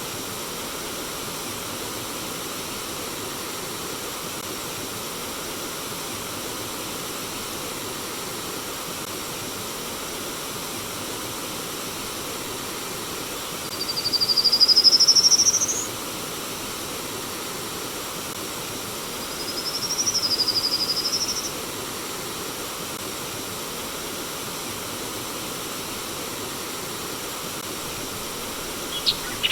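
Steady rush of flowing water, over which a bird gives two drawn-out high whistled calls. The first, about halfway through, rises in pitch over about two seconds. The second, some five seconds later, dips and then rises. A few sharp chirps come right at the end.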